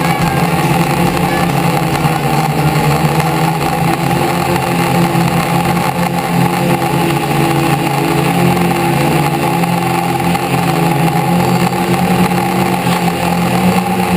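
Car engine running steadily, its pitch wavering slightly now and then.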